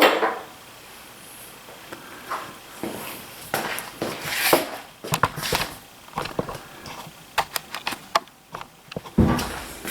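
Scattered light metal clicks and taps with some rustling, and a quick run of clicks about seven to eight seconds in: small parts, screws and hand tools being handled while reassembling a DeWalt 735 thickness planer.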